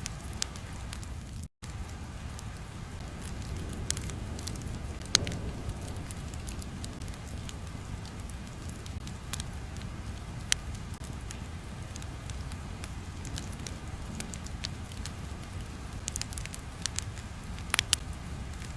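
Ambient background sound track: a steady low rumble with scattered sharp crackles and pops, broken by a very brief gap of silence about a second and a half in.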